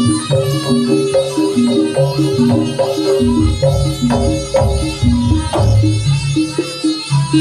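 Traditional Javanese music for a Samboyo dance: hand drums with a repeating pitched melody in a steady rhythm.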